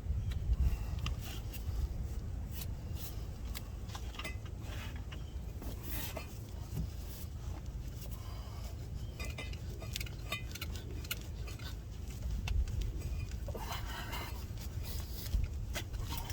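Scattered small metallic clinks and taps of hand tools working on a seized brake caliper slide pin, over a steady low rumble.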